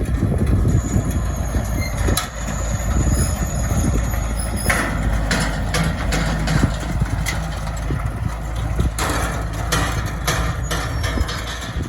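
Oliver 1555 tractor engine running steadily under load in the hayfield, with metallic clanks from the hay equipment it is working, coming at uneven intervals.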